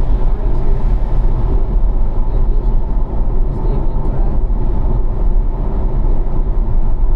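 Car engine running in fourth gear at about 2,000–2,500 rpm, with tyre and wind noise, heard from inside the cabin at track speed. It is a steady low rumble that eases slightly as the car slows into a corner.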